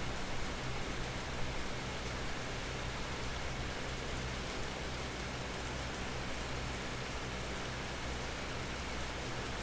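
Steady rain falling on leaves, an even patter with a few slightly louder drops in the first second or so.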